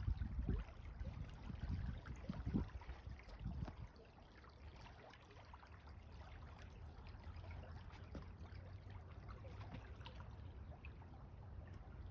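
Faint trickling water. Low rumbling bumps of wind on the microphone during the first few seconds, then a steady quiet haze.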